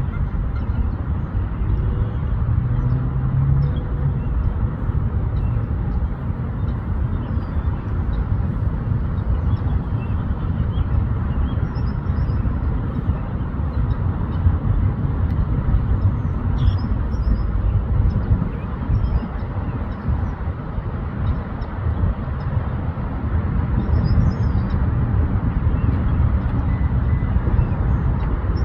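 Outdoor ambience: a steady low rumble, with faint, brief bird chirps scattered through it.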